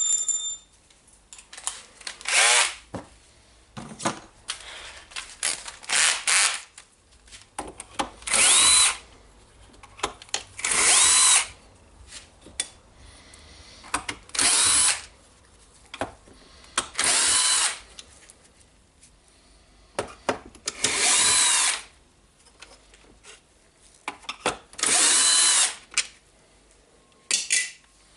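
Cordless drill-driver unscrewing the screws of a work-site radio's plastic housing, in about eight short runs of roughly a second each, the motor's pitch rising as each run starts, with small clicks of handling in between.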